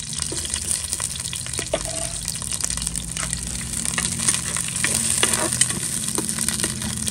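Onion and green chile sizzling in hot oil in a clay pot, with a metal spoon stirring them.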